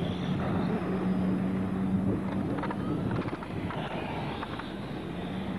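Several radio-controlled racing cars running, one holding a steady tone while others rise and fall in pitch.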